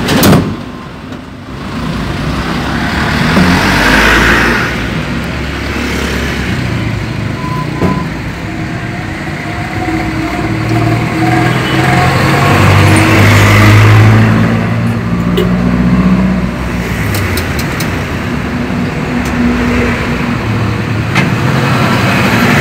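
Toyota 4K four-cylinder engine, fed by a motorcycle carburetor, running under way, heard from inside the cabin, its pitch rising and falling with the throttle. A short loud thump comes right at the start.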